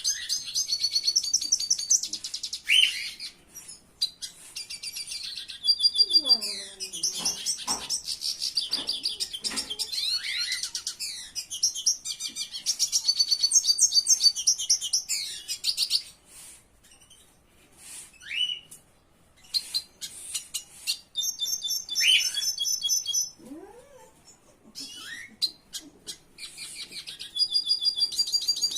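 Small songbirds chirping and singing rapid, high-pitched trills, several overlapping, with short lulls partway through. A lower, sliding call comes in about six seconds in.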